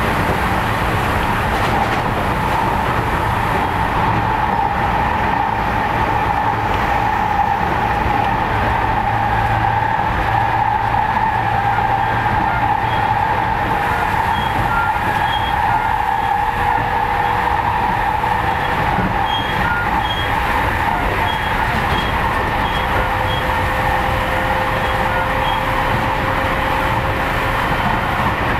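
Electric train running along the track, heard inside the carriage: steady rolling noise with a steady whine, and a fainter second whine that rises slightly from the middle on.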